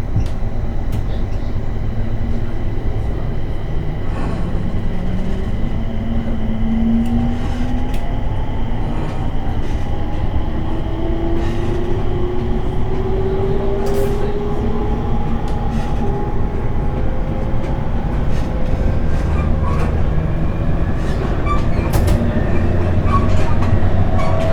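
Cab-interior running sound of a 701 series electric multiple unit: the traction motor and inverter whine rises steadily in pitch as the train gathers speed, over a steady rumble of wheels on rail with occasional sharp clicks from rail joints. The whine climbs once from about four seconds in to fourteen seconds, then starts a second rise near the end.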